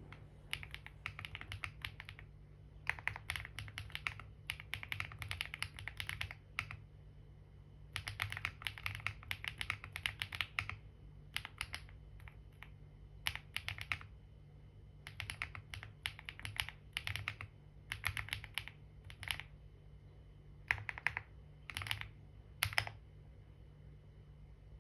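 Typing on a computer keyboard: runs of quick key clicks broken by short pauses, stopping near the end.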